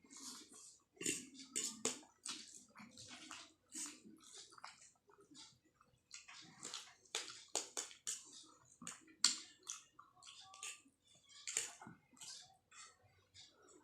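A person slurping and chewing Maggi instant noodles: a quick, irregular run of short wet slurps and mouth sounds.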